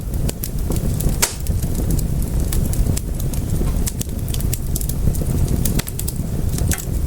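Wood fire crackling in a fireplace: irregular sharp pops and snaps over a steady low rumble, with one louder pop about a second in.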